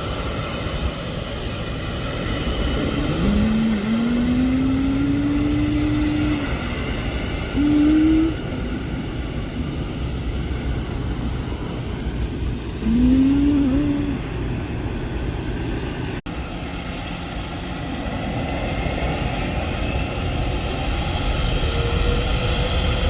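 Boeing 777-300ER airliner with its GE90 engines running steadily, under a constant rush of noise. Four short rising whines stand out, the first and longest about three seconds in. Near the end a higher tone slowly climbs while the overall sound grows louder.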